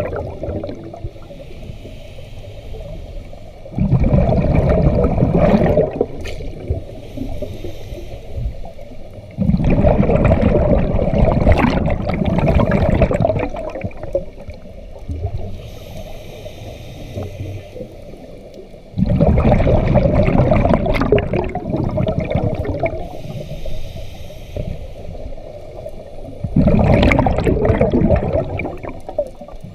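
Scuba diver breathing underwater through a regulator: four gurgling bursts of exhaled bubbles, each a few seconds long, about every seven to nine seconds, with a faint hiss of inhalation between them.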